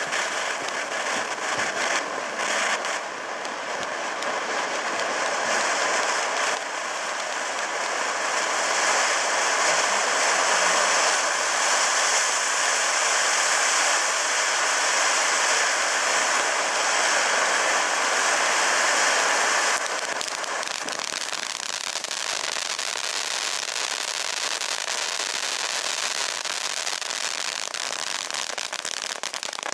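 VOLT! #WATT crackling firework burning: a dense, unbroken crackle of countless tiny pops, which eases off a little about twenty seconds in.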